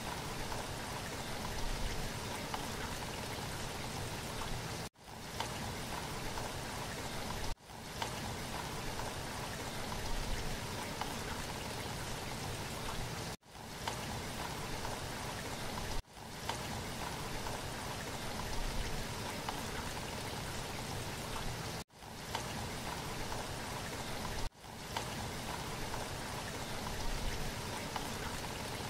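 Steady rain falling, an even hiss of drops with no thunder. About six times the sound briefly cuts out and swells back in, as a rain recording restarts.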